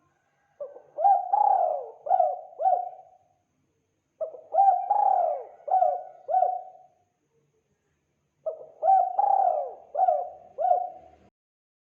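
Spotted dove (tekukur) cooing: three matching phrases a few seconds apart, each a short note, a longer drawn note and two short closing notes.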